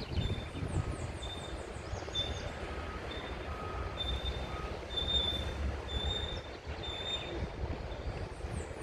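Birds calling: repeated high, steady whistled notes with short gaps, lower notes between them, and quick runs of falling chirps about a second and a half in and again near the end. Wind rumbles on the microphone underneath.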